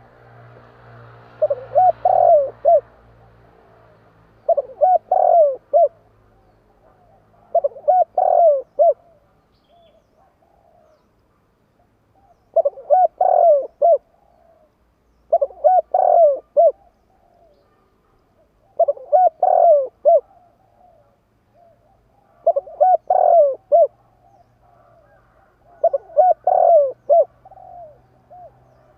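Spotted dove cooing: eight phrases of several quick, low, bubbling coos, one about every three seconds.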